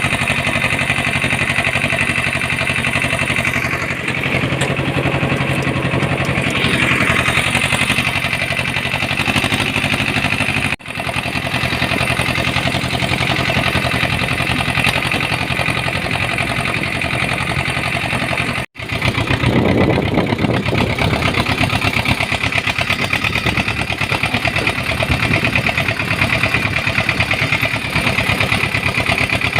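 Uralets mini-tractor engine running steadily while hauling a freshly loaded trailer of manure. The sound cuts out very briefly twice.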